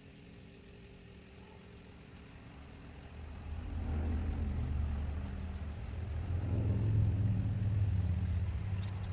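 Low motor hum with a deep steady tone, quiet at first, swelling up about three and a half seconds in and staying loud.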